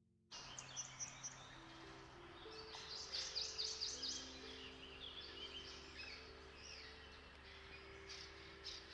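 Several songbirds singing and chirping, starting suddenly a moment in, with a quick run of down-slurred notes about three seconds in. Soft held music notes play underneath.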